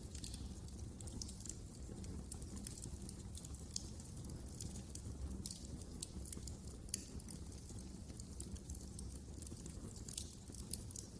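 Wood fire crackling in a fireplace: frequent small, irregular pops and snaps over a steady low rumble of burning.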